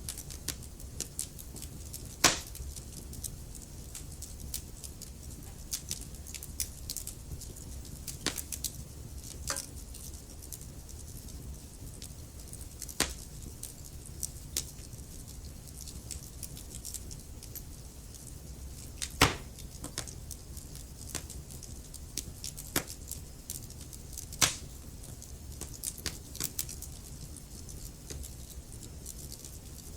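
Wood fire crackling in a fireplace: many small irregular crackles, with three louder pops standing out, over a low steady rumble.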